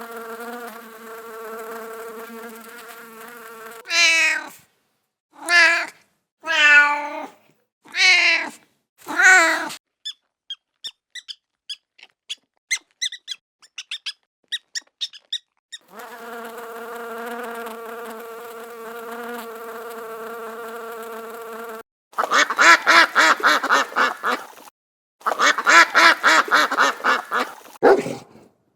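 A steady insect buzz, like a fly, is interrupted by five short calls that fall in pitch, fitting a kitten meowing. Then come a run of quick, faint high chirps, the buzz again, and two bursts of rapid high-pitched animal calls.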